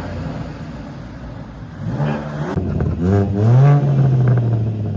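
BMW G82 M4's twin-turbo inline-six running through a Cobra sport exhaust system, revved twice: a short blip about two seconds in, then a rising rev held for over a second before it drops back near the end.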